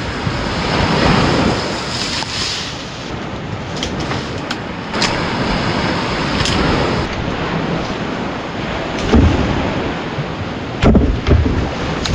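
Wind and surf noise, with gusts buffeting the microphone in low rumbles about nine and eleven seconds in, and a few sharp clicks in between.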